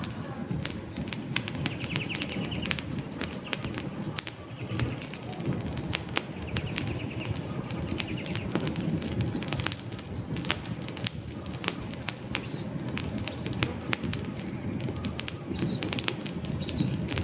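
Wood campfire burning, with a steady low rush of flames and frequent sharp, irregular crackles and pops from the logs. A few faint high chirps come in during the second half.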